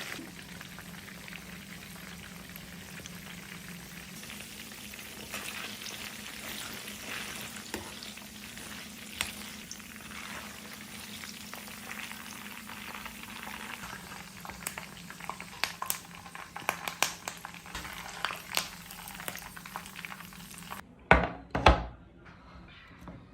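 Chicken frying in a pan: a steady sizzle, with a spatula clicking and scraping against the pan more often in the second half, and two loud knocks near the end.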